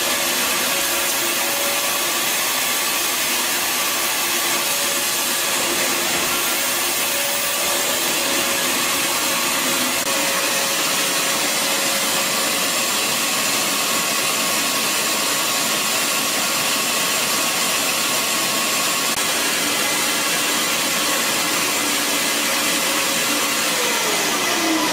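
Bissell Garage Pro 12-amp wall-mounted wet/dry vacuum running steadily, a loud rush of air over a steady motor whine. Near the end it is switched off and the whine falls in pitch as the motor spins down.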